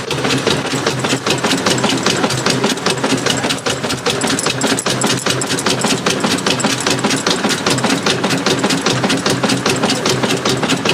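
1902 Fowler steam traction engine running: a fast, even clatter of knocks over a steady hum.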